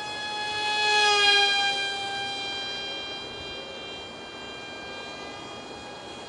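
Ultra micro RC foam jet's 8 mm direct-drive motor and propeller whining in flight. It passes close about a second in, where it is loudest and its pitch drops slightly, then it carries on fainter.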